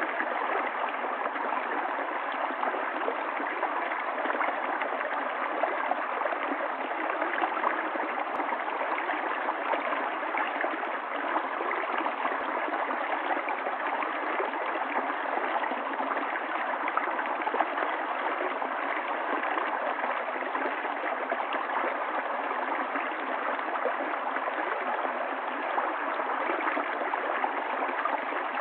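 Stream water running and gurgling steadily, a dense, unbroken splashing rush.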